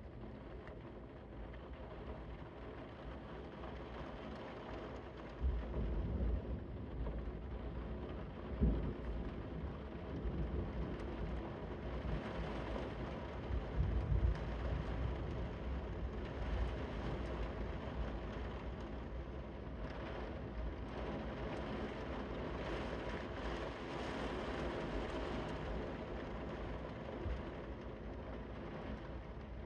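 Heavy rain falling steadily, a continuous hiss of drops. Deep low rumbles swell through it around 6, 9 and 14 seconds in.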